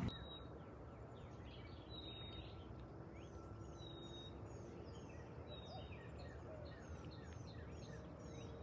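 Birds chirping and whistling: many short, quick, falling chirps and a few brief steady high whistles, repeated throughout over a faint background hiss.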